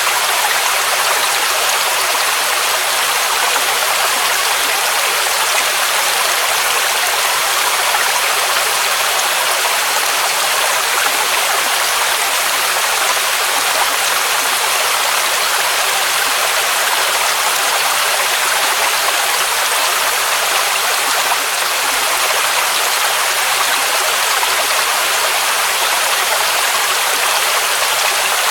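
Waterfall rushing: a steady, unbroken roar of falling water, hissy and bright, with little deep rumble.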